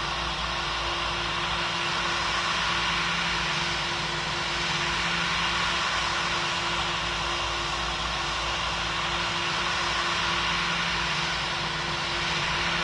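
Steady engine and airflow noise heard inside the cabin of a Boeing 777 airliner: an even rushing hiss with a low, constant hum.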